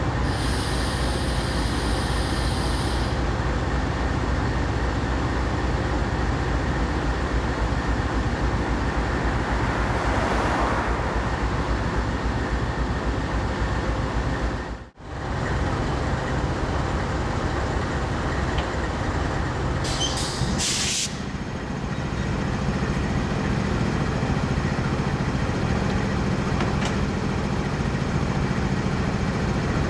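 Diesel locomotive running steadily while railcars are switched. The sound drops out briefly about halfway through. Short air hisses come near the start and about 20 seconds in, and a steadier engine note follows.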